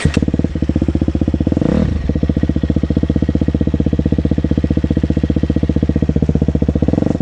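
2023 KTM 250 SX-F's single-cylinder four-stroke engine running at a steady, evenly pulsing idle, with a brief blip of throttle about two seconds in. It cuts out abruptly at the end, stalled by a rider who is used to automatic cars and new to a clutch.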